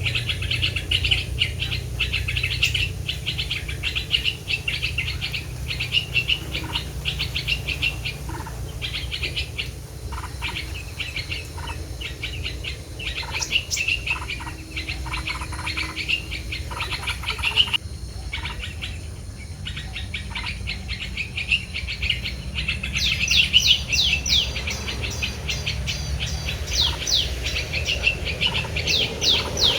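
Small songbirds chirping and calling over and over in quick runs. Past the middle, a rapid series of short falling chirps comes in. A steady low rumble runs underneath.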